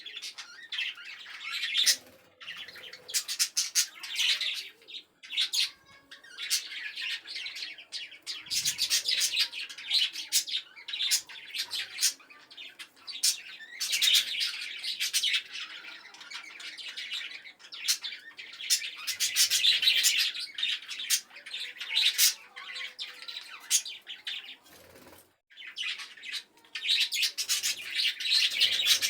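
A flock of budgerigars chattering together in fast, overlapping chirps and twitters that come in waves, with a couple of brief lulls.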